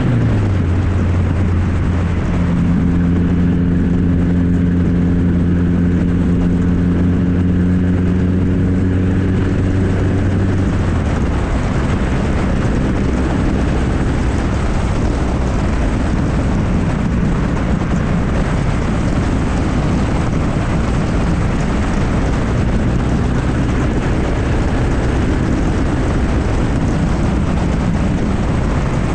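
Straight-piped 2.3-litre four-cylinder of a 1994 Ford Ranger, its exhaust running with a steady drone while driving. The pitch drops about eleven seconds in and the engine runs on at the lower note.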